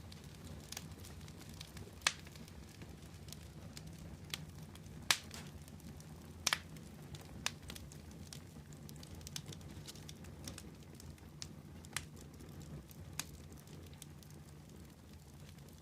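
Wood fire burning with a steady low rumble and irregular sharp crackles and pops, the loudest about 2, 5 and 6.5 seconds in.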